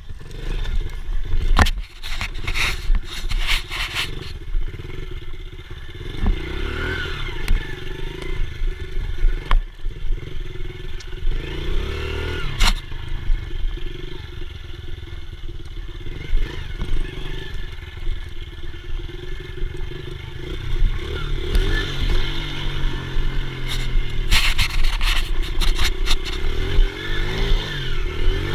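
Dirt bike engine revving up and down as it is ridden, over a heavy low rumble. Clattering knocks come in a cluster in the first few seconds and again about 25 seconds in.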